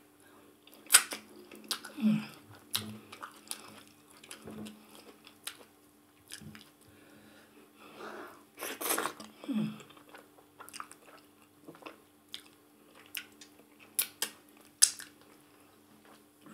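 Close-miked mouth sounds of eating fufu and ogbono soup by hand: wet chewing with many sharp lip smacks and clicks, and a longer, louder wet stretch around nine seconds in. A faint steady low hum runs underneath.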